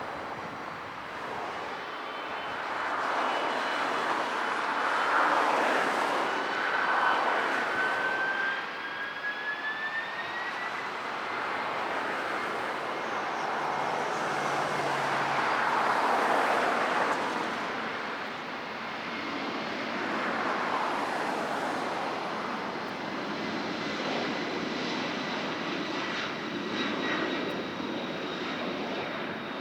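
Jet airliner engines running loud and steady, with a high whine that rises in pitch about a quarter of the way in.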